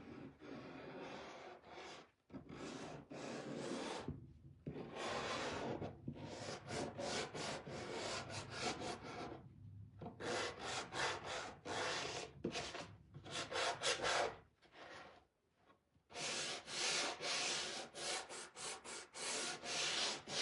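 Hand rubbing over a stenciled board in runs of quick back-and-forth strokes, broken by short pauses. This is the work of rubbing or wiping the finish on the piece.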